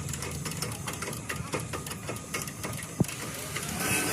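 A machine running steadily with a low hum and fast, regular ticking, with one sharp click about three seconds in.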